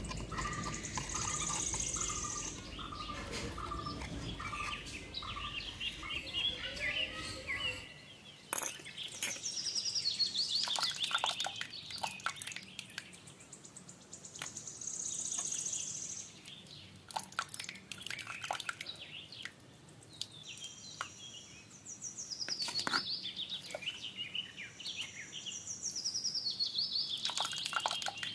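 Birds chirping and singing, with repeated high, quickly falling notes. A low steady rumbling noise runs underneath and cuts off suddenly about eight seconds in.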